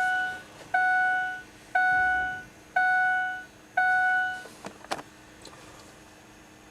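Dashboard warning chime of a 2002 Ford F-250 diesel pickup beeping five times, about once a second, as the key is turned on to wait out the glow-plug cycle before cranking. A single click follows near the end.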